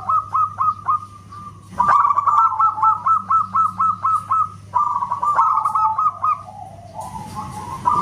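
Zebra dove (perkutut) calling: runs of rapid, clipped notes, each with a quick downward flick, in three phrases broken by short pauses.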